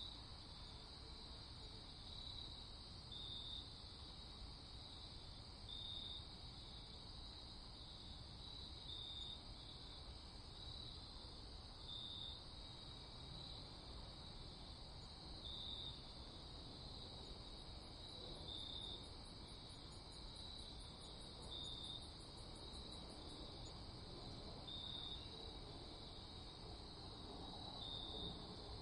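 Night-time cricket chorus: a faint, steady high-pitched chirring with a louder chirp every couple of seconds. A second, higher and faster trill comes in partway through and stops again a few seconds later.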